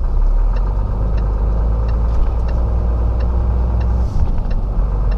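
Diesel engine of a 26-tonne Renault rigid lorry running, a steady low rumble heard from inside the cab, with faint regular ticking over it.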